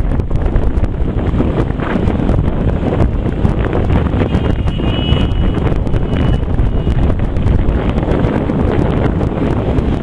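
Wind buffeting the microphone: a loud, steady rumbling noise, with a faint high thin tone briefly near the middle.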